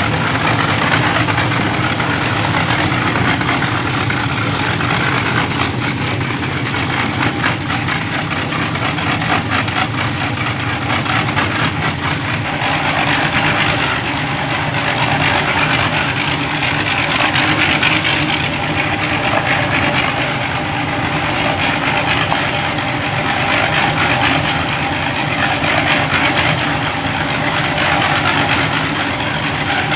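An engine running steadily at a constant, loud drone, without pauses or changes in speed.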